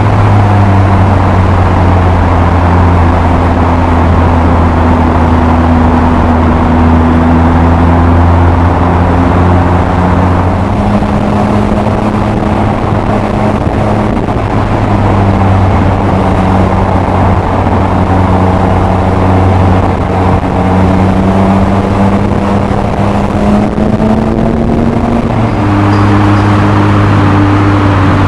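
Triumph Speed Triple RS three-cylinder engine through an Arrow twin-outlet exhaust, running under way at moderate revs. Its note drops about ten seconds in, climbs slowly later and steps up sharply a few seconds before the end, with wind rushing over the microphone.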